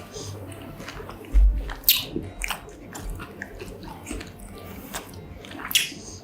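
Close-miked biting and chewing of a mozzarella corn dog, with crisp crunches from its fried coating. The sharpest bites come about two seconds in and again near the end.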